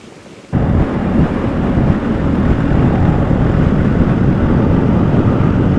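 Heavy wind noise on the microphone from riding a motorcycle with sidecar at road speed, mixed with the motorcycle running. It cuts in suddenly about half a second in, after a much quieter stretch, and then stays loud and steady.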